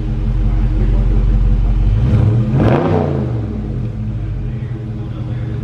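Dodge Charger V8 idling through its exhaust. About two and a half seconds in it is given one quick rev, rising and falling, before it settles back to idle.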